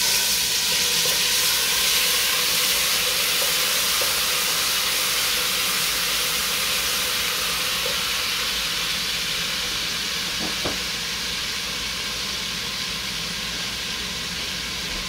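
Garlic hitting hot oil in a stainless steel pan, sizzling at once and slowly dying down as it fries. A faint tap about two-thirds of the way through.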